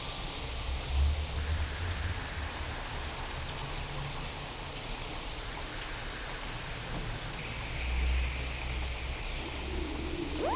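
Steady rain with low thunder rumbles swelling about a second in and again around eight seconds in, from a real storm recording reworked with sound-design effects to sound alien.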